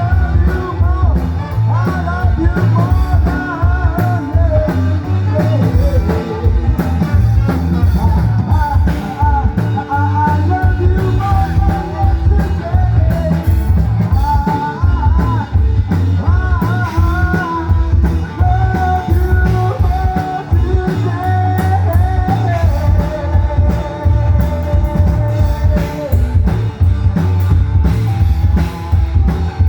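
A rock band playing, with a singing voice over guitar, bass and a steady beat.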